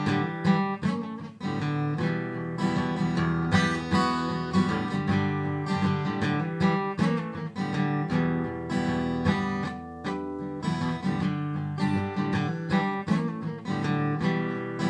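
Instrumental passage of a blues song between sung verses: strummed guitar with band backing, in an even rhythm.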